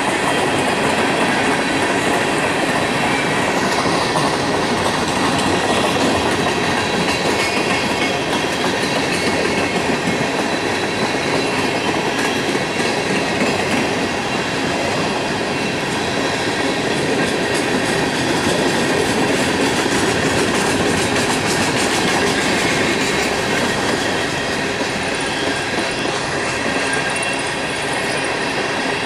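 A long string of empty steel coal hopper cars rolling past on the rails: a steady rumble and rattle of wheels and car bodies, easing slightly near the end.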